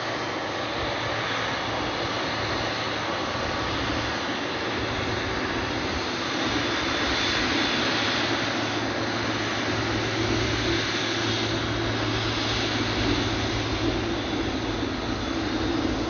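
Boeing 777F freighter's twin GE90 turbofan engines running, a steady jet roar that swells for several seconds in the middle.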